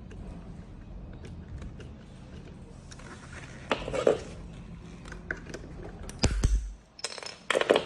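Light clicks and clatters from hard objects being handled, with louder knocks about four seconds in, one heavy thump a little after six seconds, and a quick run of knocks near the end.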